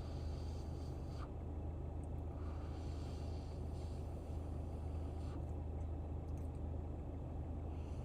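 Steady low drone of a car engine running at idle, heard from inside the cabin.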